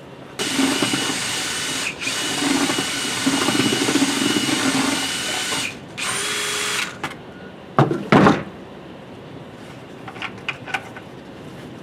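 A handheld electric power tool, drill-like, runs for about five seconds with a steady high whine, dipping briefly once. It stops, then runs again in a short burst of under a second. Two loud knocks follow, then a few faint clicks.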